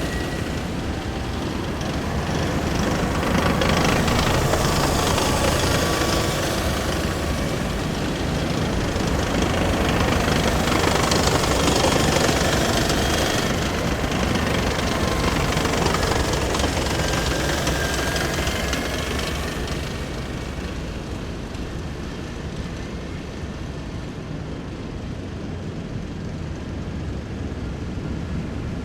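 A column of heavy military vehicles driving past, their engines and running gear making a continuous loud noise with thin whining tones on top. The noise swells as vehicles pass about four and twelve seconds in, then fades over the last third.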